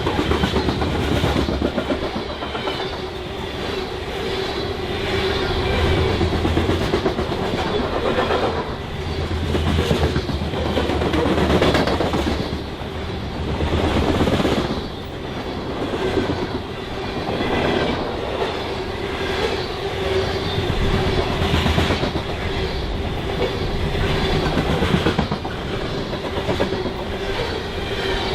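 BNSF freight train rolling past, its car wheels clicking rhythmically over the rail joints.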